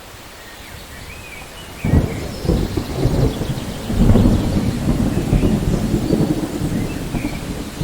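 Steady rain with a clap of thunder breaking in about two seconds in, then rolling and rumbling low through the rest.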